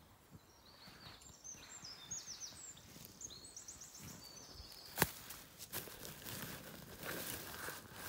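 A songbird singing high, repeated chirps and quick runs of falling notes over the first few seconds. About five seconds in there is a single sharp click, followed by rustling and handling noises.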